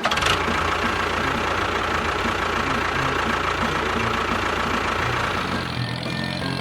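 A motor running steadily with a rattling hum. Its low rumble drops away near the end.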